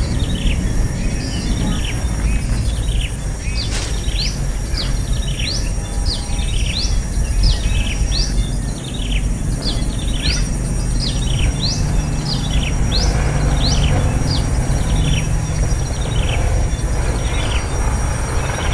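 Small birds chirping, a steady series of short, sharp chirps sweeping up and down in pitch at about two a second, over a constant low background rumble.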